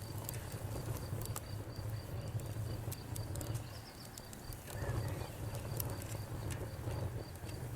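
Campfire crackling, with scattered sharp pops over a low steady rumble, while a cricket chirps in an even high-pitched pulse several times a second.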